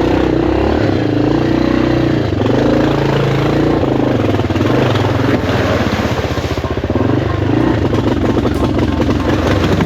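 Yamaha XT500's single-cylinder four-stroke engine running with a fast, even pulsing, its pitch rising and falling with the throttle.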